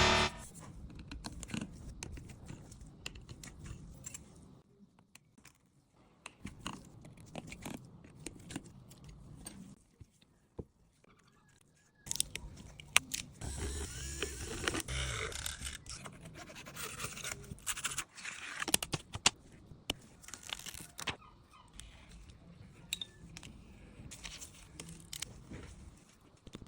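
Small clicks, scrapes and crunching of hand tools working an iPhone 13 apart to replace its swollen battery, broken by short quiet pauses.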